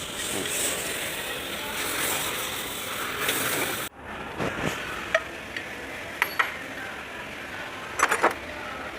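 A steady hiss that cuts off suddenly about four seconds in, followed by a few light metallic clinks of parts or tools knocking together, two of them close together near the end.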